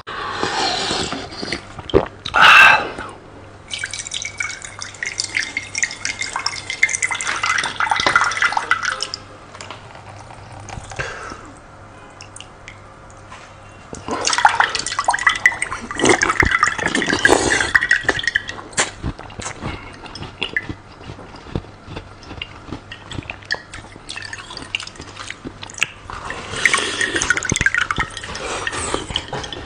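Close-miked water sounds: liquid splashing and dripping in several bursts of a few seconds each, with quieter gaps between, as in a water-drinking mukbang.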